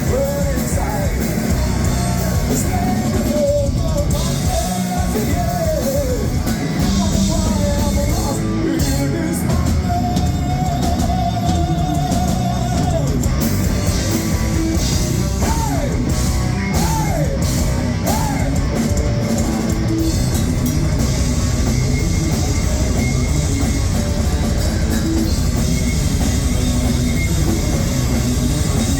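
Heavy metal band playing live: distorted guitars and a drum kit with a sung vocal line over them.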